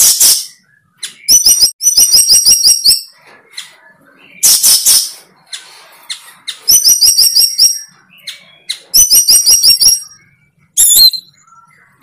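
A bird calling loudly and close: several runs of fast, sharp repeated notes about a second long each, alternating with noisier scratchy bursts, and a short gliding whistle near the end.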